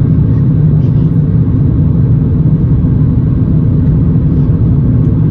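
Steady low rumble of an Airbus A350's Rolls-Royce Trent XWB engines and airflow, heard from inside the passenger cabin.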